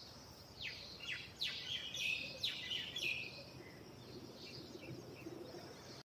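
Birds chirping: a quick run of short, downward-sweeping calls in the first half, then fainter, sparser calls.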